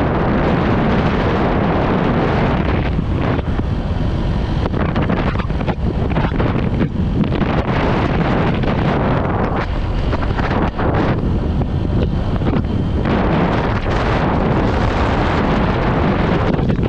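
Strong wind buffeting the microphone of a moving scooter: a dense, steady low rumble with a higher hiss that swells and drops away in gusts several times.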